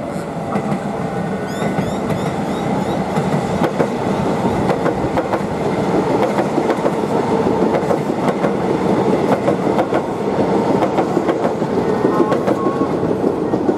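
Melbourne Metro electric suburban train running past on the tracks below, its wheels clacking steadily over rail joints and points.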